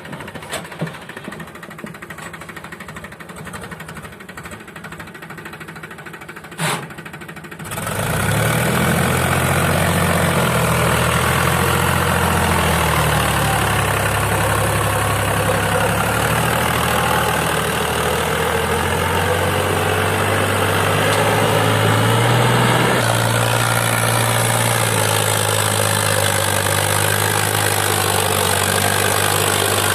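Powertrac Euro 50 tractor's diesel engine running. It comes in abruptly and loud about eight seconds in, after a quieter stretch with a sharp click, and then runs steadily with small rises and falls in pitch.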